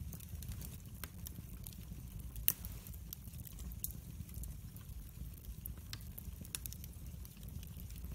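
Wood fire burning in a fireplace, crackling with irregular sharp pops over a low steady rumble of the flames; one louder pop about two and a half seconds in.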